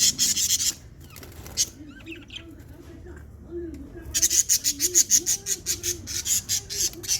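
Pet lovebirds chattering in fast runs of shrill chirps: a short run at the start, then a longer, louder one from about four seconds in, with a fainter, lower warbling call underneath.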